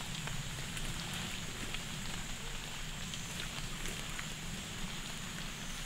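Light rain pattering on leaves: a steady soft hiss with scattered small ticks.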